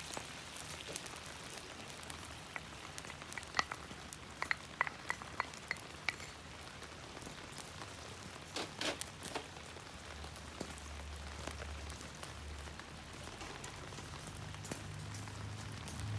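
Food sizzling in a pan over a campfire, with a run of light metallic clinks a few seconds in and a few more near the middle.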